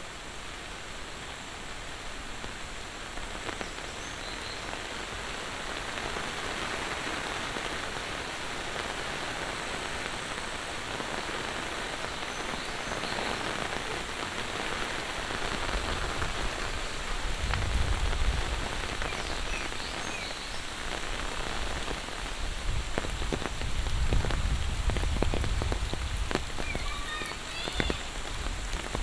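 Steady monsoon rain falling, with low rumbles coming in about halfway through and again a few seconds before the end. Near the end come a run of sharp drip-like ticks and a few faint high chirps.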